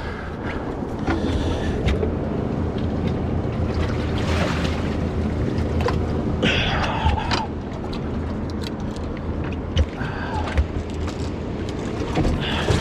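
Boat engine running steadily, with wind and water noise on the microphone and a few light knocks.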